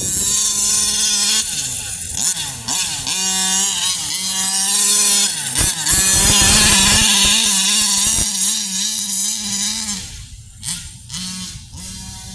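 45cc two-stroke gas engine of a 1/5-scale Baja 5T RC truck with a Big Gun exhaust, revving up and down in repeated rising and falling bursts as the truck is driven. It grows quieter about ten seconds in.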